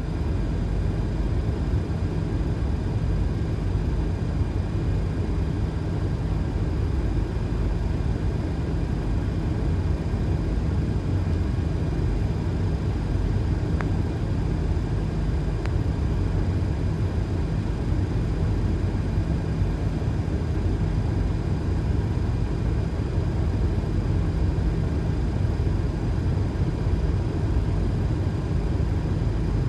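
Steady low rumble inside a Boeing 737 flight deck on final approach: airflow and engine noise with the landing gear down and flaps at 30.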